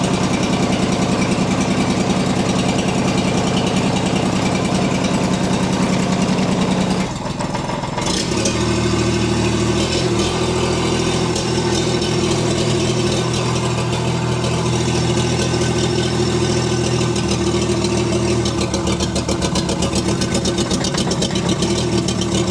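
STL1000's engine running warm at a steady speed, with the misfire it has had since new. About seven seconds in the sound briefly drops and changes pitch, then settles at a new steady speed of about 1500 rpm.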